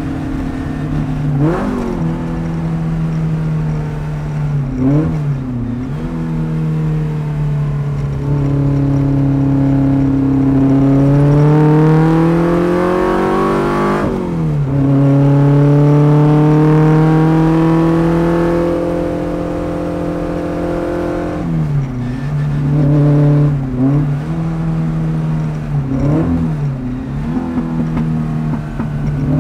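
A Fiat Abarth 1000's small four-cylinder racing engine is heard hard at work from inside the car. The revs climb steadily and then drop sharply at an upshift about halfway through. Quick dips and blips of revs come with downshifts, a few early on and a cluster near the end.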